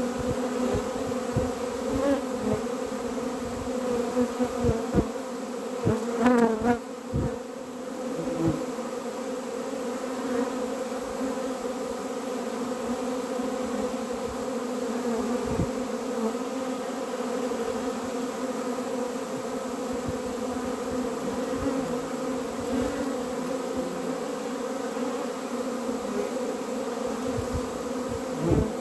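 Honeybees buzzing around an opened hive in a steady hum, with one bee wavering in pitch as it flies close past about six seconds in. Scattered knocks and clicks sound in the first several seconds and again at the end.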